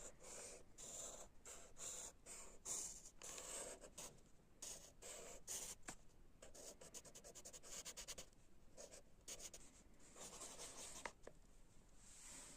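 Drawing strokes scratching on paper, faint, in short strokes and quick runs of back-and-forth shading.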